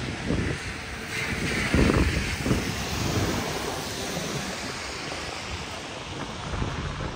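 Rainy city street ambience: a steady hiss of rain and traffic on wet pavement, swelling about two seconds in, with low buffeting of wind on the microphone.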